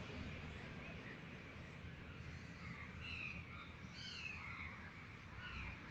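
Faint background bird calls: a scattering of short chirps over a low steady background hum.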